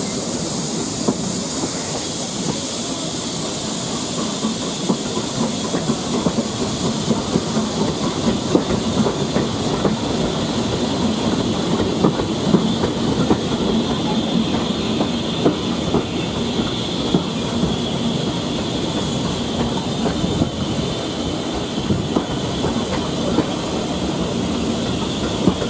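Steam-hauled passenger train running steadily, heard from an open coach window: a continuous rumble and rush of air, with irregular clicks of the coach wheels passing over the rail joints.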